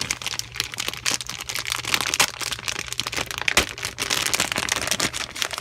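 Plastic bag of model kit parts crinkling and crackling as it is handled, with a sharper click about three and a half seconds in.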